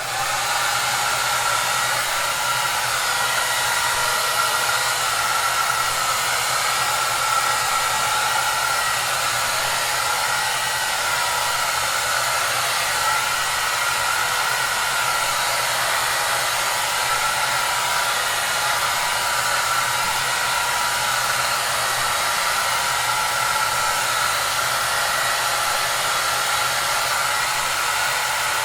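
Hair dryer running steadily: an even rushing hiss with a faint low motor hum under it.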